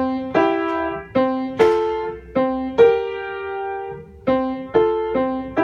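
Piano playing three-note block chords over a C root, moving up and back down: C major, C–F–A and C–G–B♭. About nine chords are struck, mostly in quick pairs, each left to ring and fade, one held a little longer near the middle.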